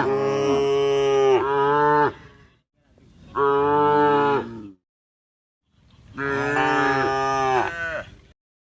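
Cattle mooing: three long calls with short gaps between them, the first already under way at the start.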